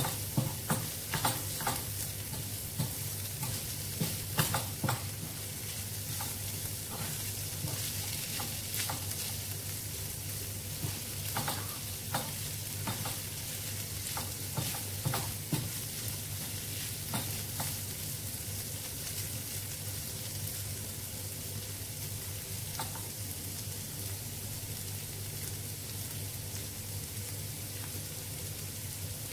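Ground beef and onion sizzling in olive oil in a frying pan. For about the first half a wooden spatula scrapes and clacks against the pan as it is stirred; after that only the steady sizzle goes on.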